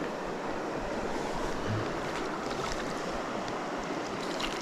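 River rapids rushing steadily over rocks, with a few faint short ticks.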